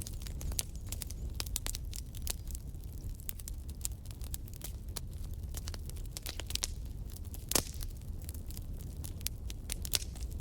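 Wood fire in a fireplace burning steadily, with irregular sharp crackles and pops over a low rumble; one louder pop about seven and a half seconds in.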